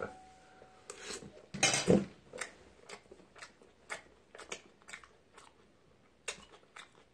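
Close-miked chewing of a mouthful of rice, wet mouth smacks and clicks at irregular intervals, loudest about two seconds in.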